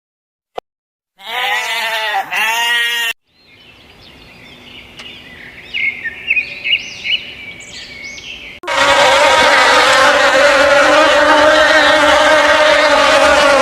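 A run of edited animal sound clips. About a second in comes a short stretch of bleating, then faint high chirps over a rising hiss, and from about two-thirds of the way through a loud, steady insect buzz, like a swarm of bees or flies.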